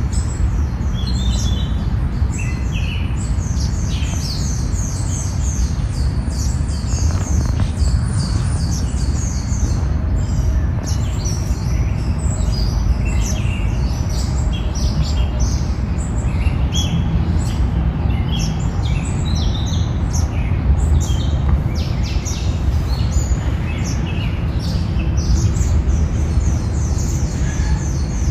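Birds chirping throughout, many short, repeated high notes from several birds, over a steady low rumble.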